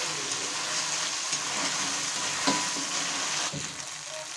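Ground spice paste sizzling in hot oil in a metal kadai as it is fried down, stirred with a metal spatula that scrapes and clicks against the pan now and then. The sizzle eases a little near the end.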